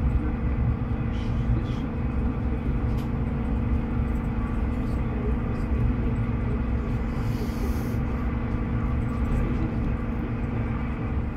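Interior running noise of an SJ X2000 train under way: a steady low rumble of the wheels on the track with a constant hum over it. A short hiss comes about seven seconds in.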